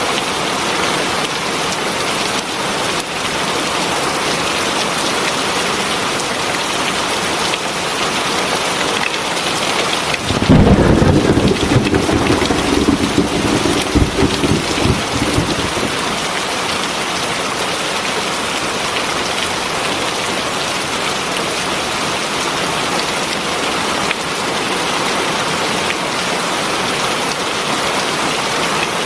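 Steady heavy rain. About ten seconds in, a clap of thunder breaks in suddenly and rumbles for about five seconds before fading back under the rain.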